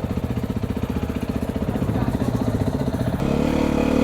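Beta 430 RR single-cylinder four-stroke dirt bike engine running at low revs with an even, rapid pulsing beat. About three seconds in, the note turns steadier and louder as the revs pick up.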